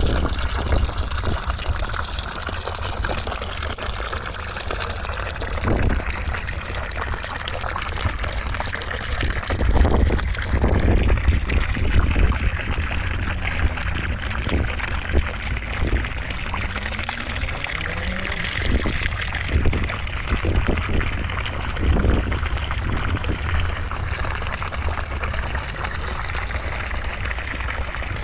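Continuous rushing noise of running water, steady in level, used as a white-noise sound for sleep.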